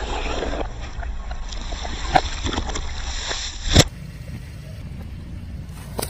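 A car's tyre rolling over and crushing objects, with a low rumble and sharp cracks about two seconds in and again near four seconds, followed by a quieter stretch of rolling.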